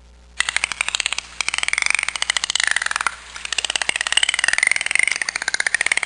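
Dolphins vocalising: rapid trains of clicks with rising and falling whistles, starting about half a second in.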